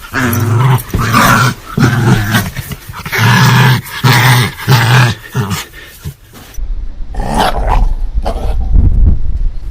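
Dog growling aggressively in about six rough, loud bursts, one after another, a warning growl. From about two-thirds of the way in, a heavy low rumble takes over with scattered shorter sounds.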